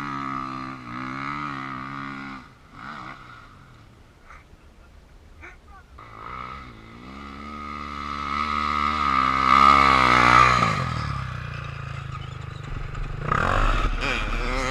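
KTM enduro dirt bike engines revving hard. One fades out about two seconds in; another builds, its pitch rising, to the loudest point about ten seconds in, then drops away sharply. A short burst of throttle comes near the end.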